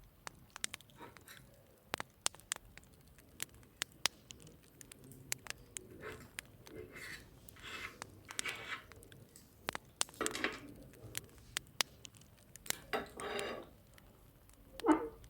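Dishes and cutlery handled: scattered light clinks and ticks, with a few longer scraping sounds and a louder clink near the end.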